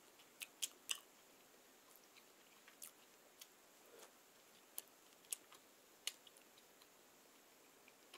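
Close-miked eating of soft, cream-filled bread: quiet chewing with scattered wet mouth clicks and smacks, and a soft bite about four seconds in.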